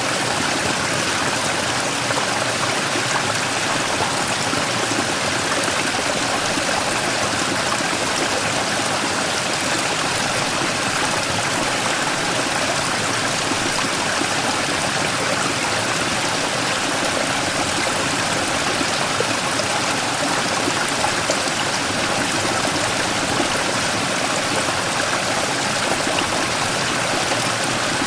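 Mountain stream rushing and splashing over a large rock, a steady, even flow of water.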